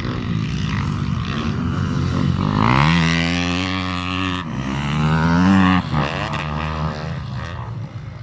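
Motocross dirt bike engines running. About two and a half seconds in, one engine revs up sharply and holds high. It dips briefly, climbs again, then drops off just before six seconds as the bike goes by.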